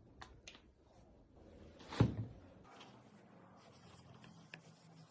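A few faint clicks, then a single sharp knock about two seconds in. A faint steady hum with hiss follows.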